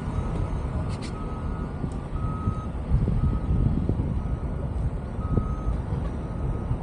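Backup alarm of a truck or heavy machine reversing: a single-pitched beep repeating steadily over a loud low rumble, with a sharp click about a second in.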